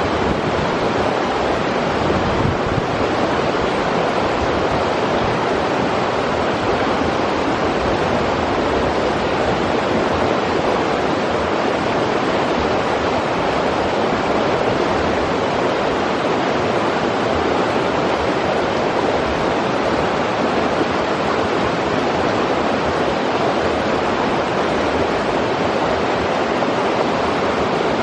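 River water rushing over rocks: a loud, steady, unbroken roar.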